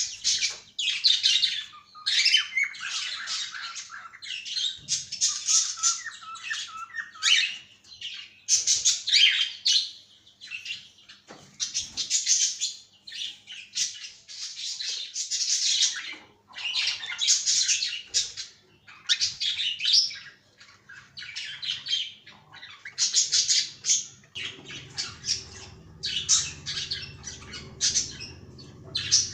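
Cockatiels calling in a steady run of loud, harsh calls, one after another with short breaks. A low steady hum comes in about five seconds before the end.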